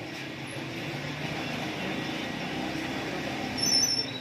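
Busy street traffic: vehicle engines running, with a brief high-pitched beep near the end.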